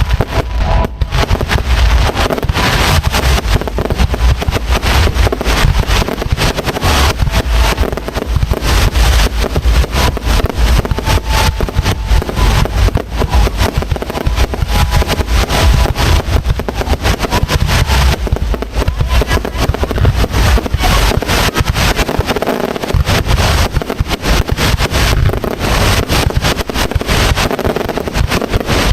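Fireworks display in a dense barrage, bursts and crackles following one another without a break over a heavy low rumble.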